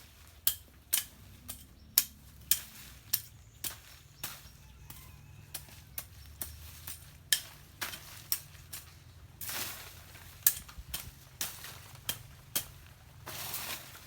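Hand tool chopping and clearing bush and debris from the ground, striking about twice a second in sharp chops, broken twice by a longer scraping sweep.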